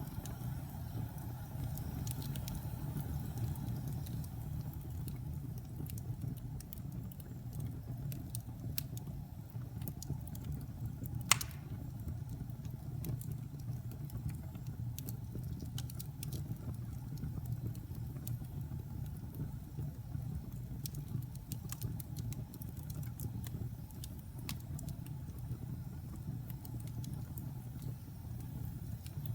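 Wood fire in a fireplace burning with a steady low rumble and scattered small crackles, with one sharp, loud pop about eleven seconds in.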